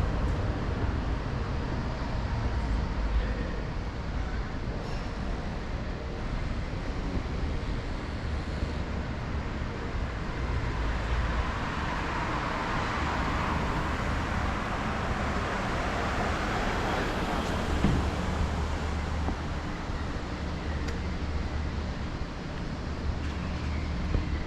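Steady low rumble of road traffic, with a vehicle passing that swells and fades about halfway through.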